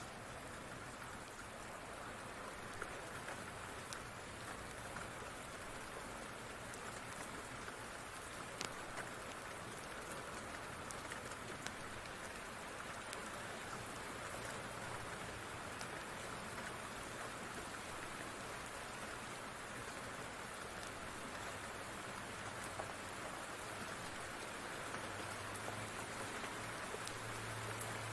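Steady rain falling, an even hiss with scattered sharp clicks of drops. A low rumble comes up near the end.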